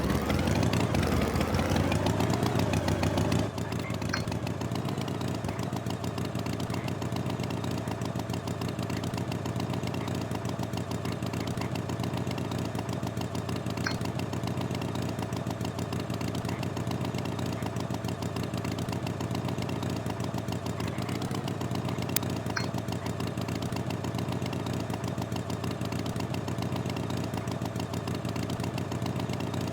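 An engine running steadily, a little louder for the first few seconds, with a few faint clicks.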